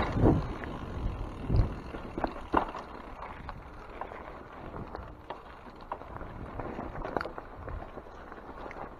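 Mountain bike rolling over a wet trail: tyre and ride noise, louder in the first couple of seconds, with scattered sharp clicks and knocks from the bike over roots and rocks.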